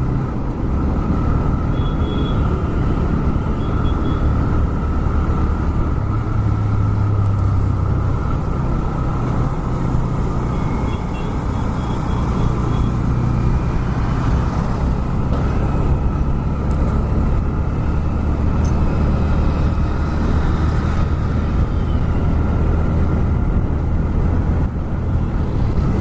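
TVS Raider 125's single-cylinder 125 cc four-stroke engine and exhaust running steadily while riding, with road noise. A few faint short high beeps sound about two seconds in and again around eleven to thirteen seconds in.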